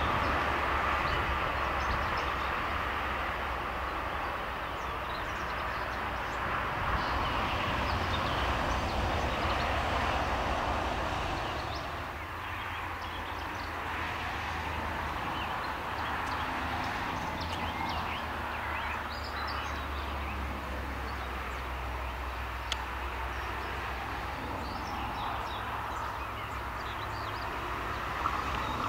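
Train running along the track, a steady rumble of rolling wheels that eases off about twelve seconds in and builds again near the end.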